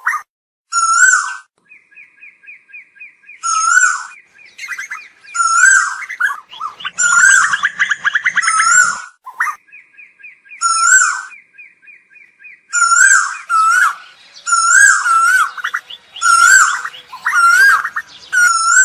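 Asian koels calling. Short calls repeat every second or two, and a fast, even series of clipped notes runs beneath them at times. The calls crowd together and overlap around the middle and toward the end.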